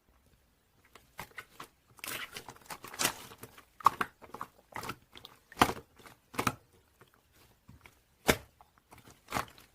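Clear slime being handled and pressed, making irregular sticky clicks and pops, a few a second.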